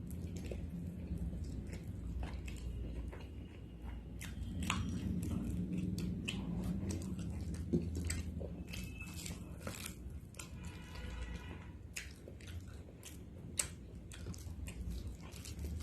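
A person eating close to the microphone: wet chewing and biting with smacks and clicks of the mouth, and now and then a crunch.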